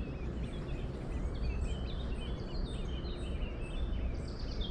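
Small birds chirping in many short calls, starting about a second and a half in, over a steady low rumble.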